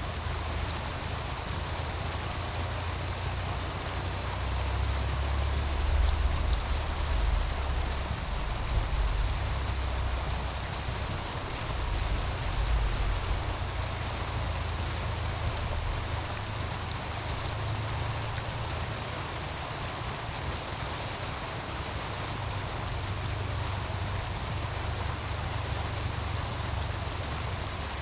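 Meltwater stream running steadily with the scattered small crackles and pops of a wood fire on top. A low rumble underneath swells for several seconds about a third of the way through, then settles.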